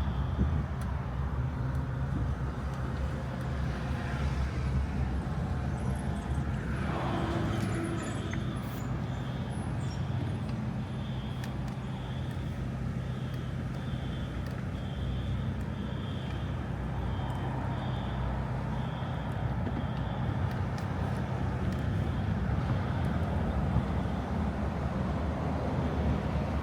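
A motor vehicle engine running steadily with a low hum. Through the middle there is a series of short, high-pitched beeps, about one a second.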